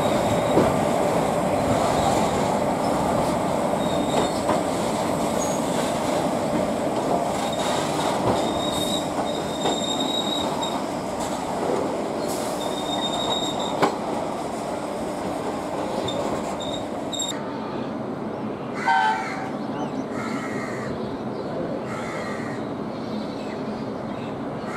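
Loaded freight train of open steel wagons rolling past behind twin electric locomotives: steady wheel and wagon rumble and rattle, with thin high wheel squeals in the middle. Near the end the sound changes, with a short pitched sound about two-thirds of the way through.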